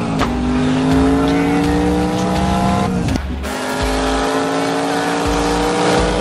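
Car engine accelerating hard through the gears, heard from inside the vehicle. Its pitch climbs steadily and drops sharply at an upshift just after the start and again about halfway through, then climbs again.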